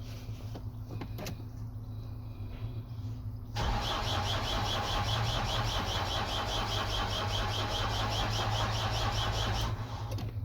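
Nissan Primastar van's diesel engine being cranked by the starter motor for about six seconds, a steady rhythmic churning that starts a few seconds in and stops suddenly without the engine catching: a crank-no-start with the instrument cluster removed, put down to a CAN bus problem. A couple of faint clicks come before it.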